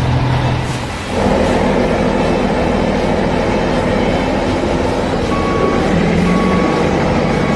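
Heavy truck engine sound effect running steadily, changing to a fuller, louder sound about a second in. Short beeps repeat faintly in the second half, like a reversing alarm.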